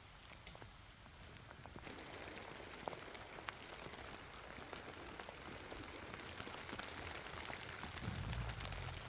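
Rain falling, individual drops ticking through an even hiss. It thickens about two seconds in, and a brief low rumble comes near the end.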